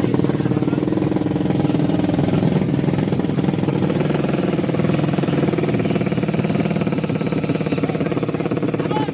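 Motorcycle engine running steadily near idle, with a fast, even pulsing beat and no big revs.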